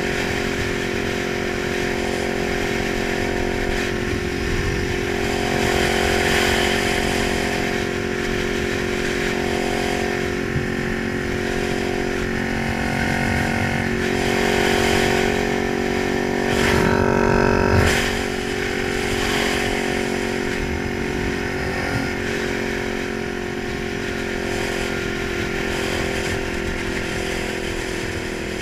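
Kawasaki 900 motorcycle engine running steadily, with a brief louder surge about seventeen seconds in.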